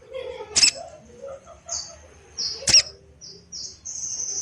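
Sogon birds calling: two sharp, piercing calls about two seconds apart, with short high chirping notes in between.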